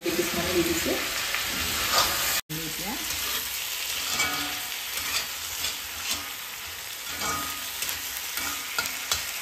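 Chicken pieces and potato chunks sizzling in hot oil in a cast-iron kadai, stirred and scraped with a steel spatula.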